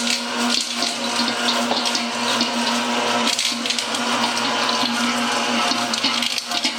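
Kobayashi Machinery BM20 machine running with a steady hum over a loud, rushing hiss: the abnormal noise the owner is recording.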